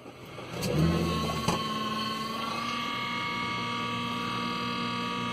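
Vehicle ignition turned: a brief heavy rumble about a second in that ends with a knock, then the engine runs steadily. Over it sits a steady high whine from the vehicle's DVR; it rises a little and settles about two to three seconds in. The owner notes the noise was there before the hard drive was changed and suspects the DVR's internal fan.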